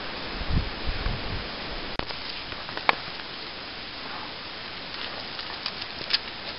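Steady blizzard noise, an even hiss of wind and blowing snow, with a few dull low thumps about half a second to a second and a half in and a couple of sharp clicks, the loudest about three seconds in.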